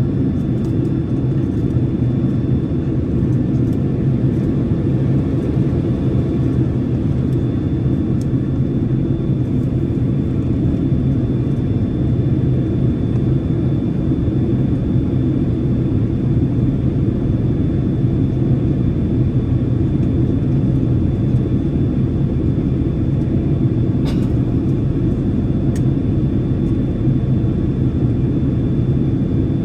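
Airliner cabin noise in flight: the steady rumble of engines and rushing air heard inside the cabin, with a faint steady high whine.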